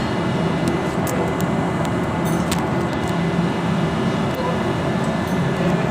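Steady drone of running machinery with a constant hum, and a few light clicks about a second in and again about two and a half seconds in.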